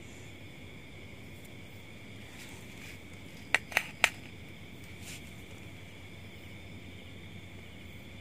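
Insects chirring steadily in a high, even drone, with three sharp clicks in quick succession about halfway through.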